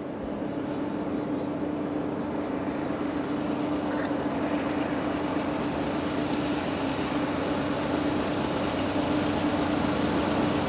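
Train approaching, its rumble and wheel noise growing slowly louder, with a steady low hum running under it.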